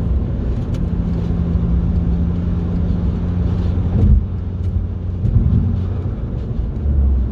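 VW Golf Mk5 GTI's remapped 2.0-litre turbo four-cylinder engine droning steadily under way, with road noise. About four seconds in there is a short thump and the engine note drops lower.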